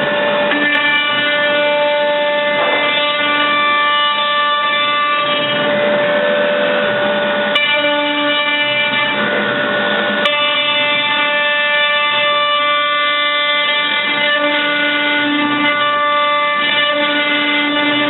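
CNC router running: its motors whine at several steady pitches over a constant noise. Some of the tones drop out or come in every few seconds as the machine's moves change.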